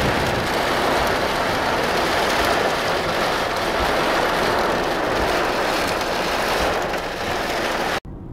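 Torrential rain pouring down in a storm, a dense, steady hiss. It cuts off abruptly near the end.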